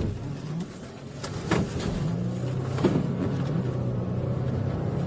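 Car engine running steadily during a police pursuit, with two sharp clicks about a second and a half and about three seconds in.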